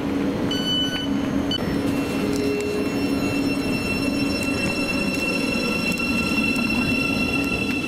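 Train running along the track: a steady loud rush of wheel and rail noise, with a thin high squeal that comes in briefly near the start and again from about two seconds in.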